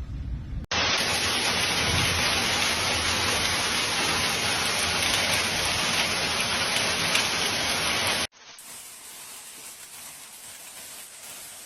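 Heavy rain pouring down, a loud steady hiss that starts abruptly about a second in and cuts off sharply after about eight seconds to quieter rain.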